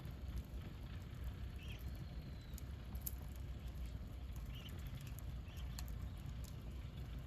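Wood campfire burning: a steady low rumble with scattered sharp crackles and pops.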